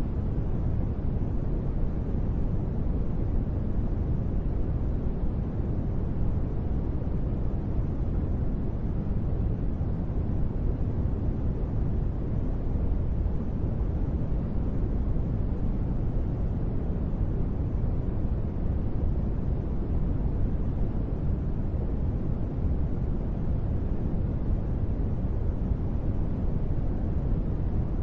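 Steady rain sound-ambience used as sleep noise: an even, deep rushing with little hiss and no separate drops, unchanging throughout.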